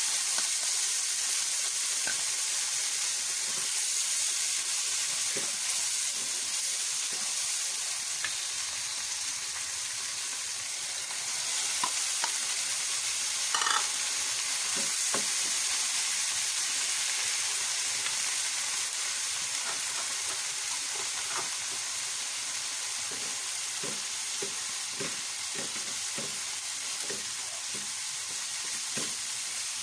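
Onions, chilies and fried tofu cubes sizzling in a frying pan, a steady hiss, while a plastic spatula stirs and scrapes them. The spatula's knocks and scrapes come thick and fast in the last several seconds.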